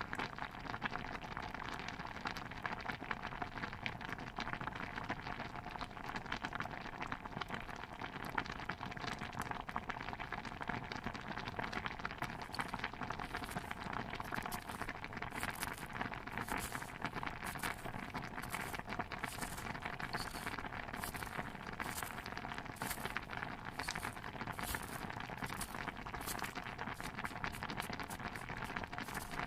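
Stew bubbling in a pot: a steady, dense patter of small pops and crackles. From about twelve seconds in, a soft hiss rises and falls a little more than once a second.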